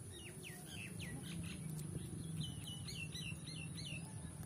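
A small bird calling: a few falling whistled notes, then a quick run of repeated curved notes, about four a second.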